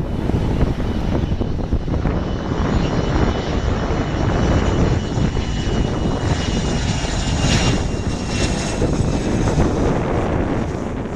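Boeing 737-200's Pratt & Whitney JT8D turbofan jet engines running on landing, a high turbine whine sliding slightly lower, with two brief louder swells in the upper hiss near the end. Heavy rumble of wind on the microphone underneath.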